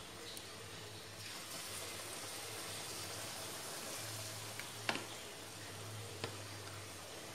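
Battered banana pieces sizzling in hot oil in a wok, a steady frying hiss that swells about a second in. Two sharp clicks stand out, about five and six seconds in.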